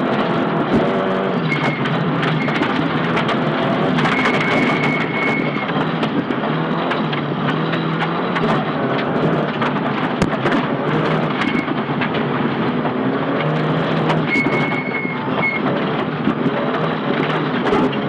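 Cabin sound of a Nissan Silvia S15 rally car at speed on a gravel stage. The engine is running hard, its note rising and dropping with gear changes, while stones and gravel clatter against the underbody as a stream of sharp clicks.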